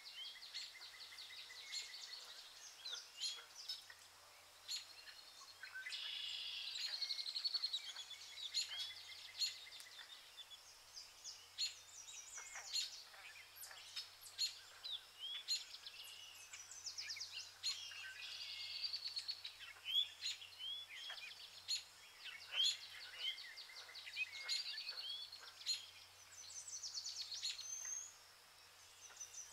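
Several songbirds chirping and trilling in quick, overlapping phrases, with a faint steady low hum underneath.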